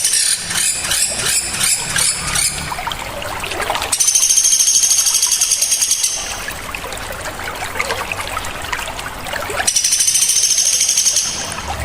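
Songbird song from a bird-training (masteran) recording: three loud, rapid, high-pitched trills, sharp and rough, about two seconds each, over a steady sound of running water.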